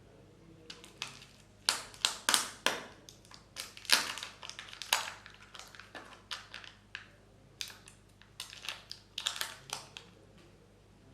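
Kinder Joy egg packaging being handled and opened: a run of sharp crackles and snaps from the wrapper and plastic egg, in irregular clusters, loudest in the first half.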